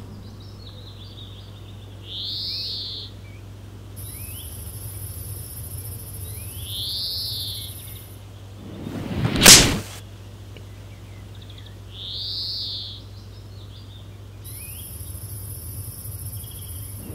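A bird's arched cry repeating the same way three times, about every five seconds, over a steady low hum and a high hiss. About halfway through, a whoosh swells up to a sharp loud peak and stops.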